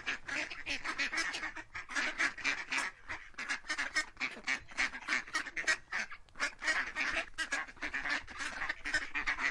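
Ducks quacking in a rapid, continuous series, about five quacks a second.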